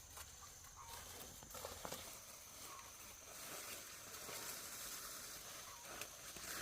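Faint footsteps and rustling as people walk, with scattered light clicks, over a steady high insect drone.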